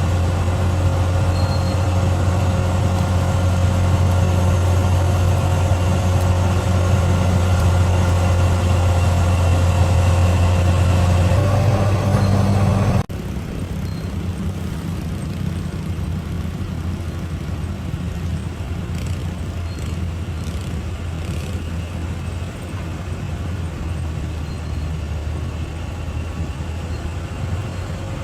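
Heavy diesel engine of a bulldozer running steadily under load. About halfway through, the sound cuts off abruptly and is replaced by a quieter, rougher engine rumble.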